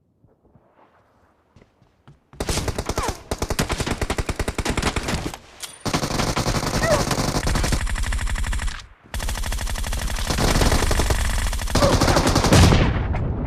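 Automatic gunfire in three long bursts of rapid shots, beginning a couple of seconds in, with short breaks between them. The last burst fades out in a ringing tail.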